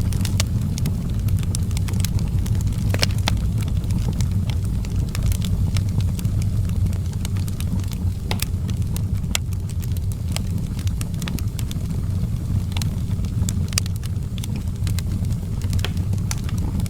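Outdoor fire crackling, with sharp irregular snaps scattered over a steady low rumble.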